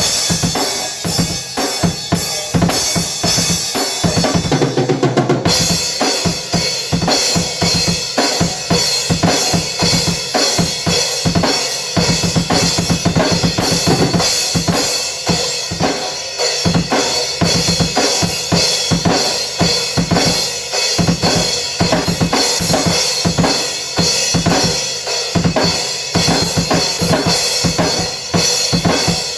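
Drum kit being played: a fast, continuous run of bass drum and snare hits under a steady wash of cymbals. The cymbals break off briefly about five seconds in.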